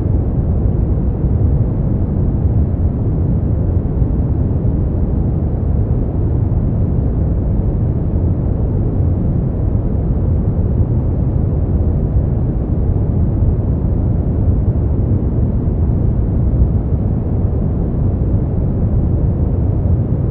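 Steady synthetic brown noise: a deep, even rumbling hiss, strongest in the bass and rolling off toward the treble, with no changes or events.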